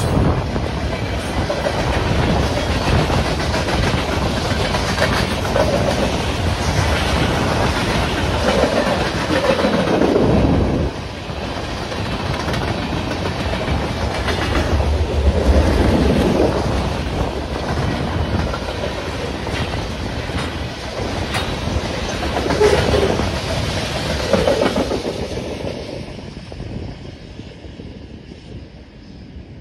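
Freight train cars, covered hoppers and boxcars, rolling past at close range with steady wheel-on-rail clatter. The sound fades near the end as the last car goes by.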